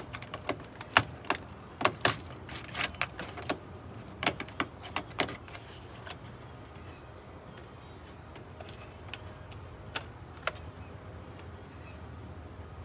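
Quick, irregular small clicks and knocks from hands working at water-damaged camper wall or floor material, then a pause and two more knocks about ten seconds in.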